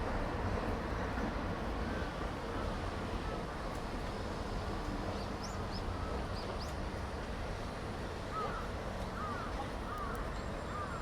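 Steady street noise with a low rumble, and birds calling: a few quick high chirps from about five seconds in, then a run of repeated calls near the end.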